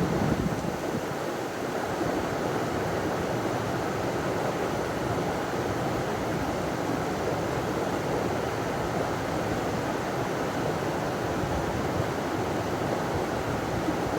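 River water running over a small waterfall: a steady, even rushing.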